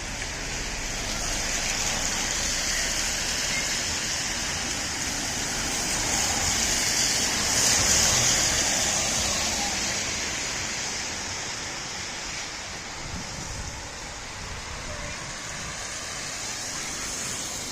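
Rain with road traffic on wet tarmac: a steady hiss, swelling as a vehicle's tyres pass about eight seconds in, then easing off.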